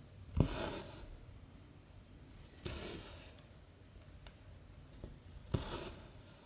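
Cotton embroidery thread pulled through 14-count cross-stitch fabric three times, a short rasping pull about every two and a half seconds as stitches are made.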